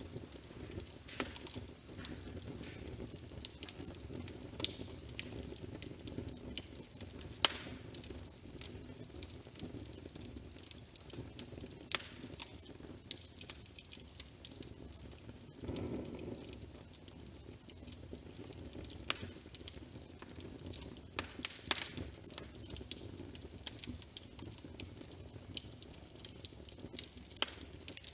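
Fireplace crackling: irregular sharp pops and snaps over a low, steady rumble of the fire.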